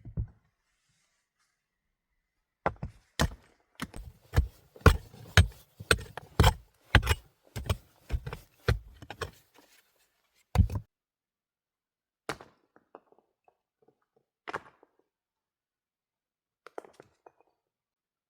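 A run of about fifteen heavy chopping blows on wood, roughly two a second, then a single blow after a short pause and a few lighter knocks later.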